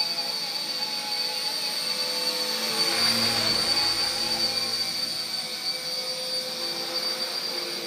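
RC Era C032 UH-1 Huey, a small electric RC helicopter, in flight: a steady high-pitched motor whine with rotor buzz, swelling louder about three seconds in.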